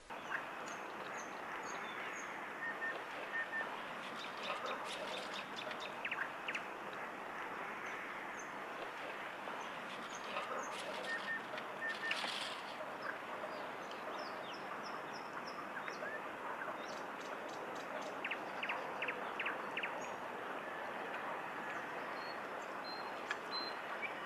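Outdoor ambience of small birds chirping, with a few quick trills, over a steady background hiss.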